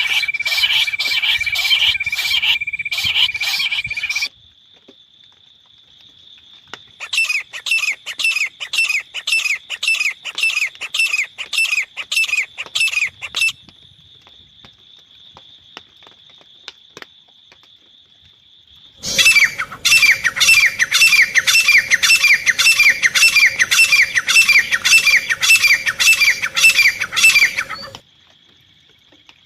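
Teetar (francolin) calling in three long bouts of rapid, repeated falling notes, about two a second, with a steady thin high whine between the bouts.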